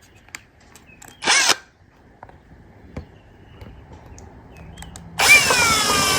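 Power drill drilling out a rivet: a brief trigger burst about a second in and a few handling clicks, then the drill runs hard from about five seconds in, its pitch dropping as the bit bites and then holding steady.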